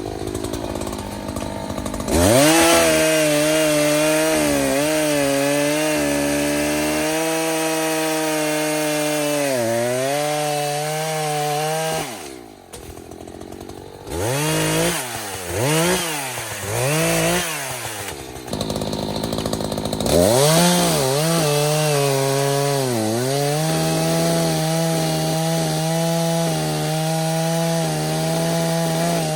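Echo CS-590 Timberwolf two-stroke chainsaw cutting a dead, dry tree. It revs to full throttle about two seconds in, with the pitch dipping as the chain bites, and drops back to idle near the middle. It is then blipped three times, revs up again and cuts steadily.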